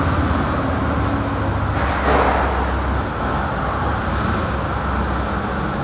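2016 Harley-Davidson Road Glide Ultra's 103 cubic inch V-twin idling steadily through aftermarket slash-cut slip-on mufflers, a deep, even sound, with a brief swell of noise about two seconds in.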